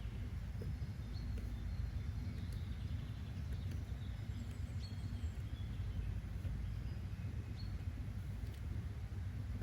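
Nature-sound ambience: a steady low rumbling noise bed with faint, scattered high bird chirps every second or two.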